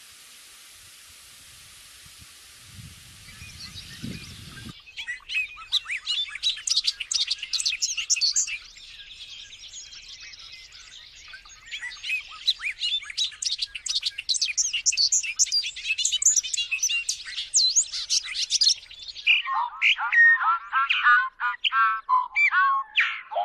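Songbirds chirping and trilling in a dense, rapid chorus. Before it starts there is a steady hiss for the first few seconds. Near the end the chorus gives way abruptly to lower, clearer whistled calls that swoop sharply up and down.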